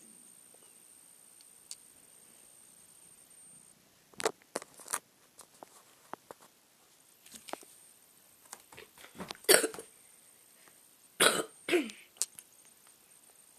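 A cat making short, sharp, abrupt sounds in irregular clusters several seconds apart, the loudest a little past halfway and near the end.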